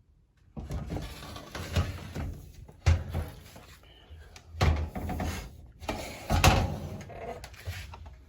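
Irregular rubbing and scraping of something being handled, with several sharp knocks, the loudest about three seconds in and about six and a half seconds in.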